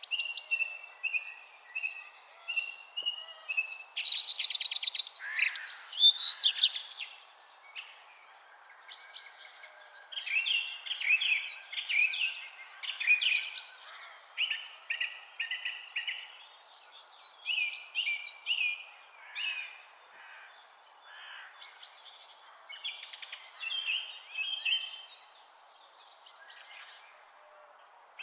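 Several songbirds singing and calling, with overlapping trills and repeated chirping notes, loudest about four to six seconds in, over a faint steady background hiss.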